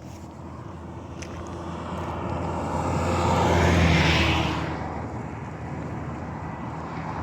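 A motor vehicle's engine passing close by. It grows louder to a peak about four seconds in, then drops in pitch and fades.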